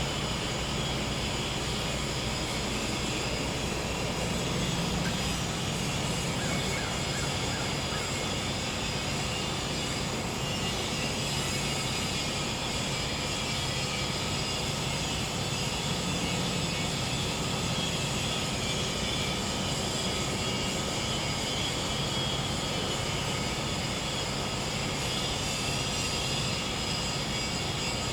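Gas-powered generator running with a steady low hum, while insects, crickets among them, trill on steady high notes.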